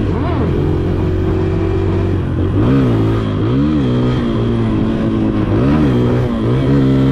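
Motorcycle engine idling steadily, with four quick throttle blips in which the pitch rises and falls back.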